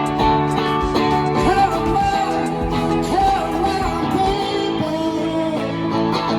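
Street buskers' music: guitar with a singing voice, playing continuously.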